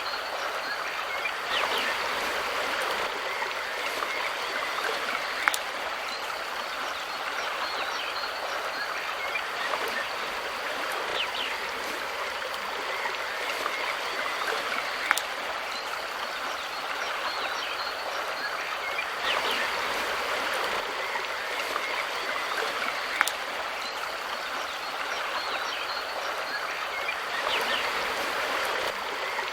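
Mountain river flowing steadily over rocks in an even rushing hiss, with a few sharp ticks.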